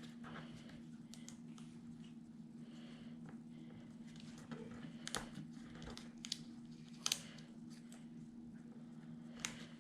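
Paper die-cut pieces and embellishments being handled and set down on a work table: faint rustling with scattered light taps and clicks, the sharpest about seven seconds in. A steady low hum lies underneath.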